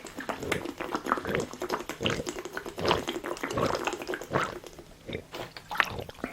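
Close-miked wet eating sounds: irregular smacking, squishing and clicking of a mouth chewing spicy braised monkfish (agujjim).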